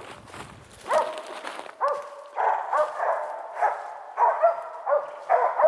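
Hunting dog barking repeatedly, starting about a second in and going on at about two barks a second.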